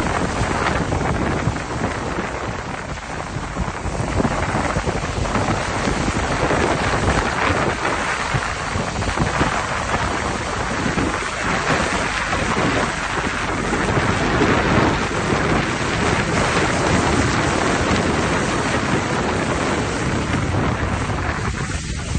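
Heavy rain pouring steadily, with a low rumble of wind on the microphone.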